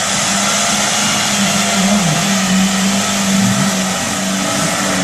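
Lada Niva engine running under load as the 4x4 churns through deep mud, its pitch holding fairly steady with two brief dips, over a constant noisy hiss.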